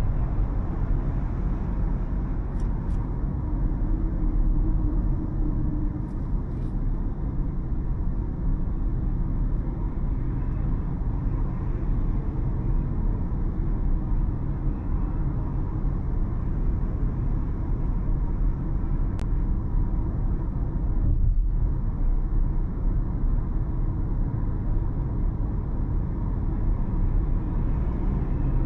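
A car driving along city streets: steady low road and engine rumble from a moving car.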